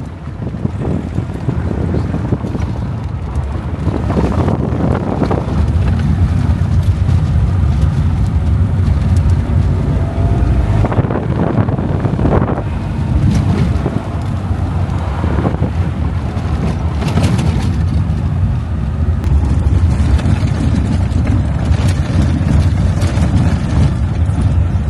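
Soviet Lada driving off-road on a rough dirt track: a steady low engine and road rumble, broken by scattered knocks and rattles from bumps.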